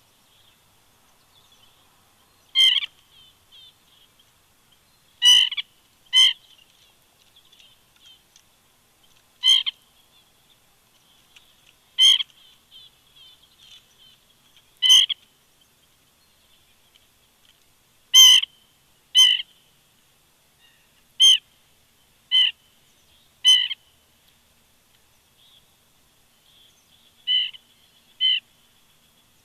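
Woodpecker calling close by: about a dozen short, sharp single calls, spaced irregularly a second to a few seconds apart, some in quick pairs. A faint high twittering of other birds runs underneath.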